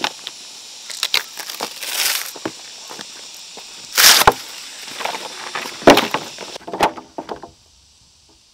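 Scattered knocks of wood and crunching rustles of dry material being handled, over a steady high hiss that stops near the end.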